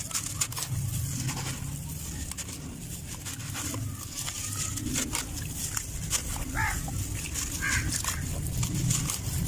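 Dry sandy dirt crumbling, with many small scattered crackles over a steady low rumble. Two short pitched sounds come about two-thirds of the way through.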